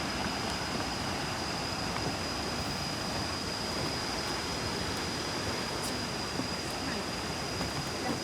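Steady rushing of a waterfall, an even unbroken hiss of falling water.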